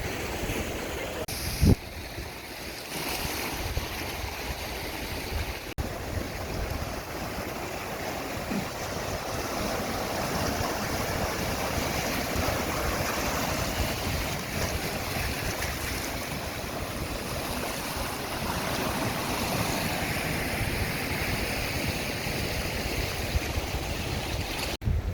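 Sea surf washing steadily, with wind buffeting the microphone; a brief thump about two seconds in.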